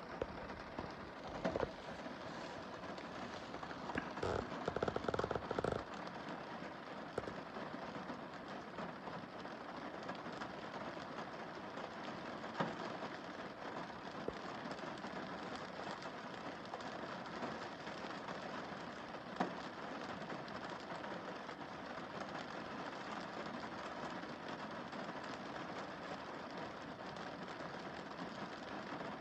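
Rain falling on a car windscreen: a steady hiss with scattered louder drop ticks. About four seconds in there is a burst of heavier, rapid pattering for around two seconds.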